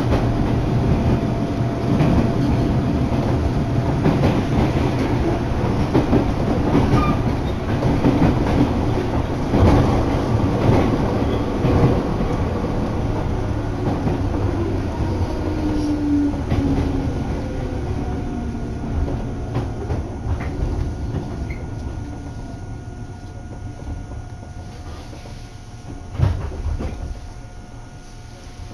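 Train running along the track, heard from inside the carriage: a steady rumble of wheels on rails with some clickety-clack. Over the second half the rumble grows quieter as the train slows for the next station, and a single thump comes near the end.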